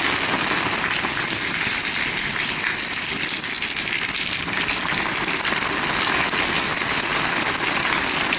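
Heavy rain falling steadily: a dense, even hiss with many small drop impacts close by.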